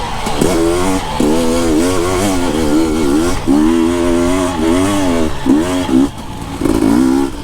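Husqvarna TE 250i single-cylinder two-stroke dirt bike engine being ridden with the throttle worked on and off, its pitch rising and dropping about once a second.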